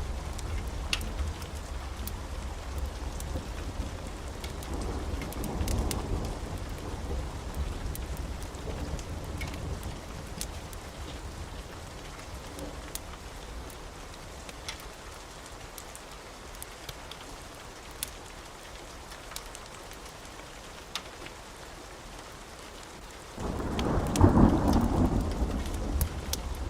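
Steady rain with rolling thunder: a low rumble swells about five seconds in and fades, then a sudden loud thunderclap breaks near the end and keeps rumbling. Faint crackles of a fireplace are scattered through it.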